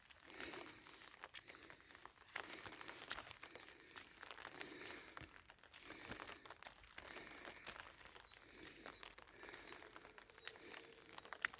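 Faint footsteps crunching on a path, with scattered small crinkling clicks.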